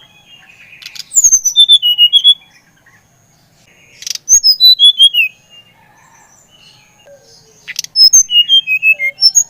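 SRDC (a songbird kept by Indonesian bird-keepers) singing three loud phrases, each a quick run of clear whistled notes stepping down in pitch, repeated every three seconds or so.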